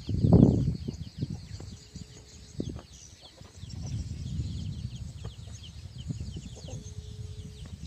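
Birds chirping: many quick, high, falling chirps throughout, over a low rumble that is loud in the first second and fainter later.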